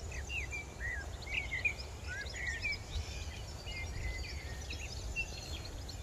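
Songbirds singing, a steady stream of short chirps and whistled notes, over a low rumble.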